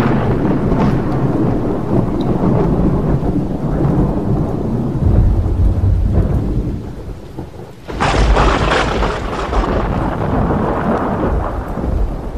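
Thunderstorm: a long rumble of thunder, then a second sharp thunderclap about eight seconds in that rolls off and fades near the end, with heavy rain falling underneath.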